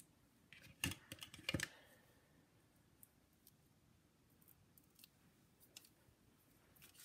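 A few quick, crisp snips of small craft scissors about a second in, then only faint handling of paper.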